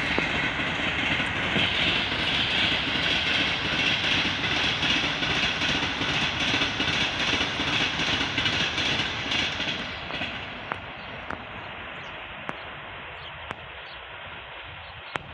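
Passenger train running past, with a steady rumble and rail noise from its wheels. About ten seconds in the noise drops away to a fainter rumble with a few sharp clicks.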